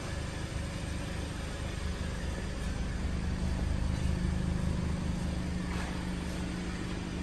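2020 Kia Sportage engine idling steadily at about 780 rpm, a low even hum.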